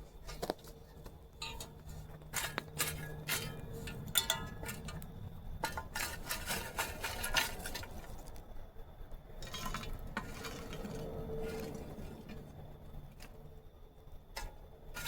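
Scraping and clinking as hot coals are shovelled onto a cast-iron camp oven lid, with a run of short metallic knocks and clinks that thin out in the second half.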